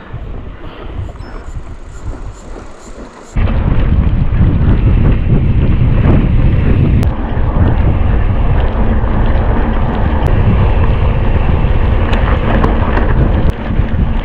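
Wind buffeting the microphone of a camera on a moving mountain bike: a loud, deep rushing noise. It comes in suddenly about three seconds in, after a quieter stretch.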